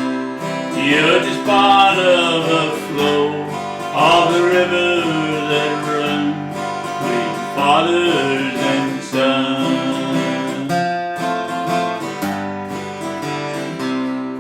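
Country song instrumental outro: strummed acoustic guitar under a lead melody of bending, sliding notes. The lead drops out after about ten seconds, leaving plainer guitar chords.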